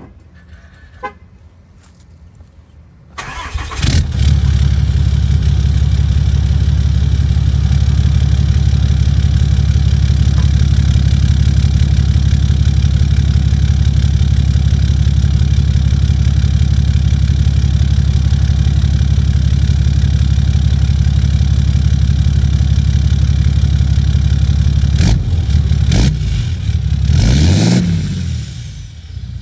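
Ram 2500's 6.7-litre Cummins inline-six turbo diesel, emissions-deleted and breathing through a straight 5-inch stainless exhaust, cranking and firing up about three seconds in, then idling loudly and steadily. Near the end there is a short rev up and back down.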